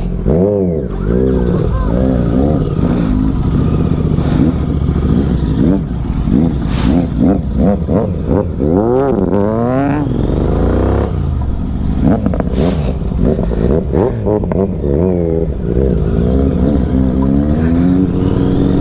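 Several motorcycle engines revving and pulling away, their pitch rising and falling again and again, with one long rising sweep about halfway through.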